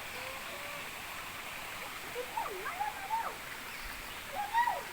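Steady rush of a waterfall and stream flowing over rocks. A few faint, high, rising-and-falling calls come through it about two to three seconds in and again near the end.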